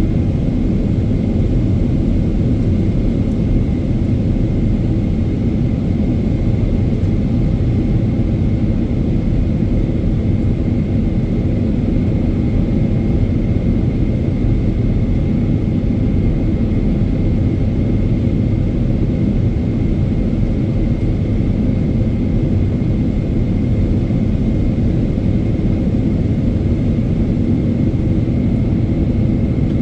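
Cabin noise inside a Boeing 777-300ER in flight: a steady low rumble of airflow and its GE90 engines, with a faint steady whine above it.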